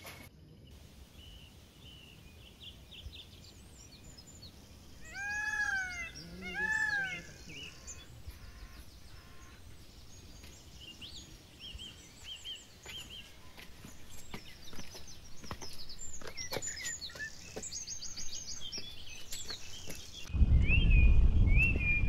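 Wild birds calling and chirping, with many short high chirps and two loud, drawn-out arching calls about five to seven seconds in. Near the end a loud low rumble comes in over the birdsong.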